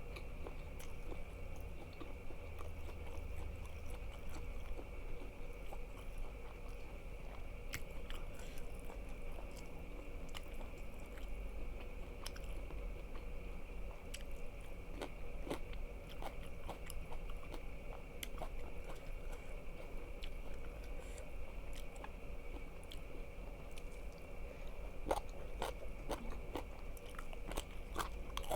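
Close-miked chewing and biting of crunchy food, with scattered sharp crunches and snaps, thickest near the end.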